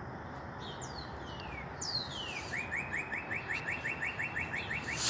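A small songbird singing: a few quick falling whistled notes, then a rapid, even trill of short rising notes lasting about two and a half seconds.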